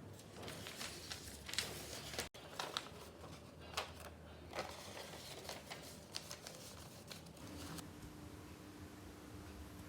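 A sheet of origami paper being folded and creased by hand. Short, sharp rustles and crease strokes come through the first half, then softer handling.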